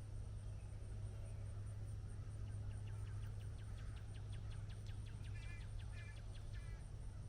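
Birds calling: a quick run of sharp, repeated notes about four a second, then a few harsh calls near the end, over a steady high insect drone and a low background hum.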